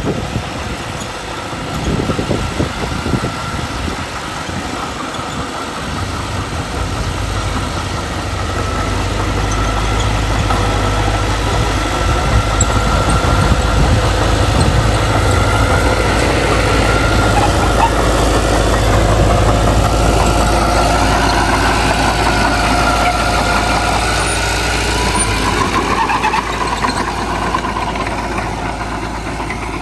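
Heavy earthmoving machinery running: a deep, steady diesel engine drone that sets in a few seconds in, preceded by rougher, irregular rumbling. In the second half a whine above it rises and falls in pitch.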